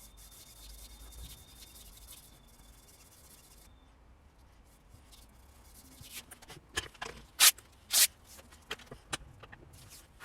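Steel broadhead blade being rubbed on a sharpening surface, flattening the back of its bevel, with a faint hiss for the first few seconds. From about six seconds in come a run of sharp clicks and taps, the two loudest half a second apart.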